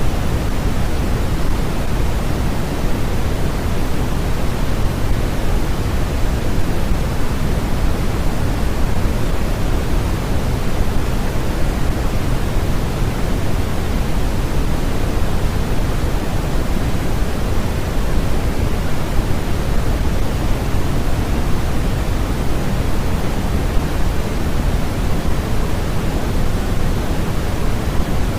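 Steady, unchanging sleep-aid noise track: an even hiss with no events, its energy strongest in the low end and thinning toward the top, closer to pink noise than to flat white noise.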